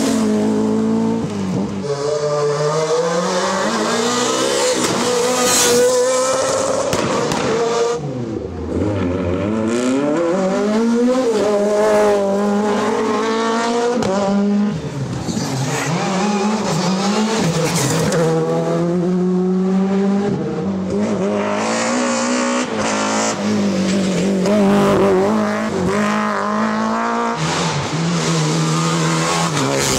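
Rally cars at full throttle on a stage, engine revs climbing and dropping over and over with quick gear changes, with several passes in succession.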